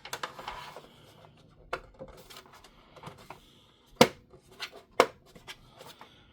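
Hard plastic toy parts being handled: a soft rub, then scattered sharp clicks and taps, the loudest about four seconds in.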